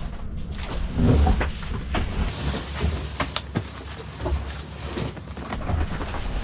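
Knocks, bumps and clicks of objects being handled, with about three seconds of scraping, rustling noise in the middle.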